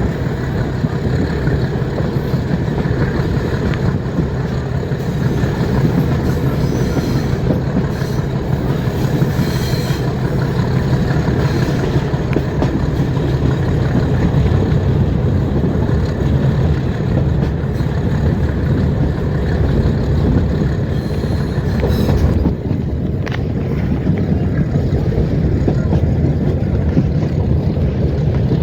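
Metre-gauge passenger train running along the track, heard from on board: a steady, loud low rumble of the coach and wheels on the rails. A brief clatter comes a little past the three-quarter mark.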